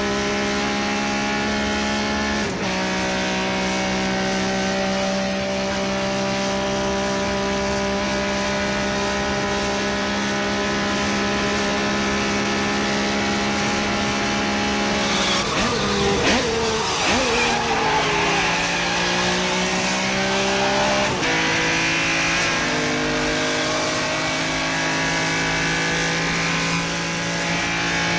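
Ferrari sports car engine pulling hard through the gears: a loud note that climbs steadily, dropping with upshifts about two and a half seconds in and again around twenty-one seconds. Around the middle the revs fall and rise again in a rougher, busier stretch as the car slows for a bend and picks up.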